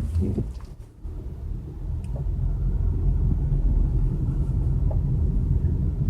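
Car running on the road, heard from inside the cabin: a steady low engine and tyre rumble that builds up from about a second in and then holds.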